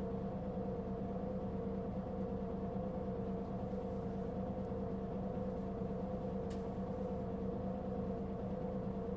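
Mitsubishi Fuso Aerostar city bus's diesel engine running steadily, heard from inside the cabin, with a constant droning hum of several fixed tones over a low rumble; this bus gives off a considerable abnormal noise. A single short click about six and a half seconds in.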